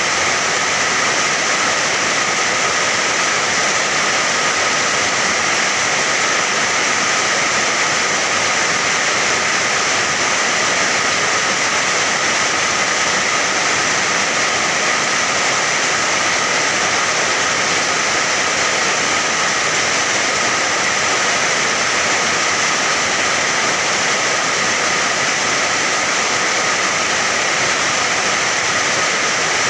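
Steady heavy rain: an even, unbroken hiss with no distinct drops, thunder or changes.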